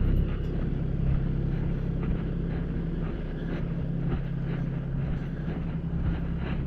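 Vehicle engine running steadily at a constant low drone, with faint rattles and clicks over it.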